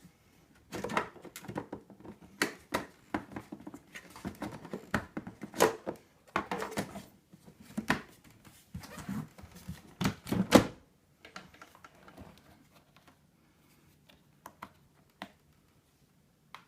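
Rapid, irregular clicking and knocking of hard plastic parts being handled and fitted together, with the vacuum cleaner not running. The clatter stops about eleven seconds in, leaving a few faint ticks.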